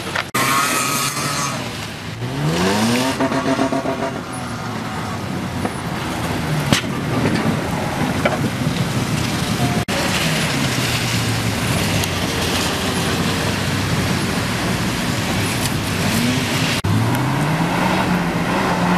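An off-road vehicle's engine revving up and down repeatedly under load while dune bashing on sand. It climbs in pitch a couple of seconds in, drops back around the middle, and climbs again near the end.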